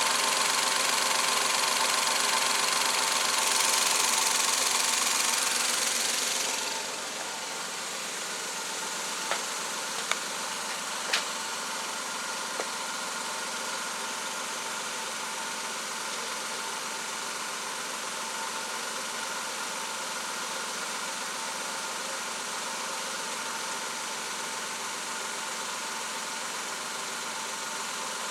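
Suzuki K6A three-cylinder engine running: louder for the first seven seconds or so, then settling to a quieter steady idle. A few light clicks come between about nine and thirteen seconds in.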